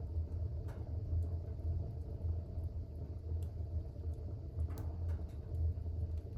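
Fire burning in a fireplace: a steady low rumble of the flames with a few faint crackles.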